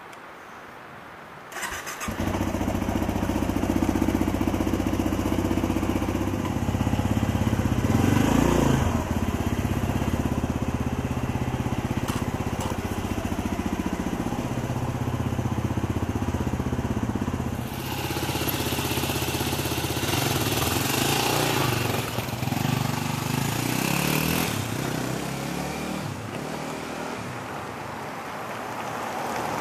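Dirt bike engine starting about two seconds in, then running, with one rev partway through. In the second half a louder rushing noise joins the engine.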